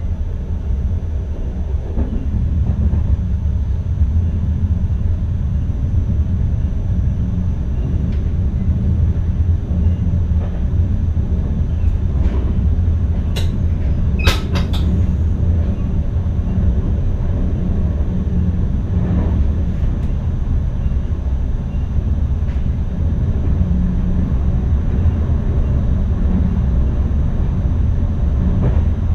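NS ICM electric multiple unit running along the track, heard from inside the driver's cab: a steady low rumble with a faint high whine, and a couple of sharp clicks a little before halfway.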